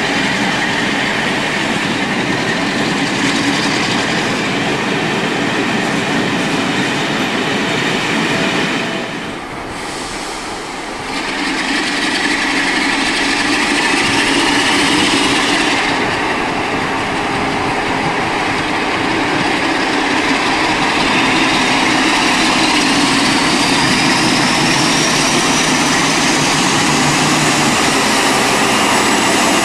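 Train in the station: a loud, steady rumble and rattle of running gear on the track, with a brief lull about nine seconds in. From the middle on, a thin whine rises steadily in pitch.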